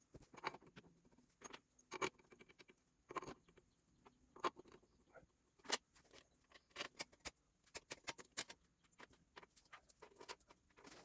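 Faint, irregular light clicks and clinks, about a dozen, from hands and tools working on the tractor.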